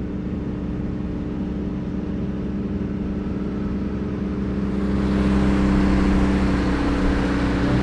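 Turbocharged Ecotec V6 of a Holden Commodore running steadily from inside the cabin, getting louder and rougher about five seconds in as more load goes on.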